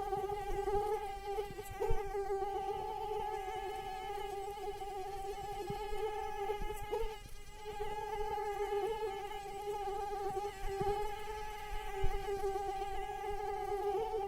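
Female mosquito's wingbeat buzz: a steady, high-pitched whine that wavers slightly in pitch. A couple of brief knocks come through about two seconds in and near the end.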